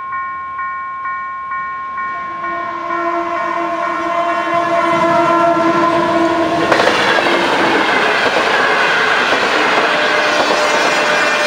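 Level-crossing warning bell ringing in even pulses, about two a second, fading out. About two seconds in, the approaching diesel locomotive sounds a long, steady horn blast. From about seven seconds the passenger train passes close by, with a loud rush of wheel and rail noise.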